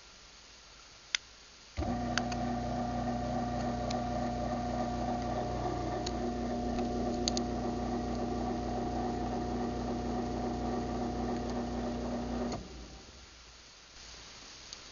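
Craftsman half-horsepower garage door opener triggered by a remote for its closing cycle: a couple of clicks, then the motor starts suddenly about two seconds in and runs with a steady hum for about eleven seconds before stopping.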